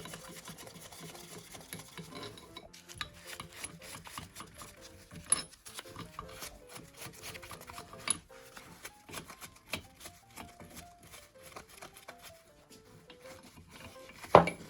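Rubbing and scraping on metal parts of a water pump being cleaned by hand, with scattered light clicks and a sharp knock near the end. Soft background music plays underneath.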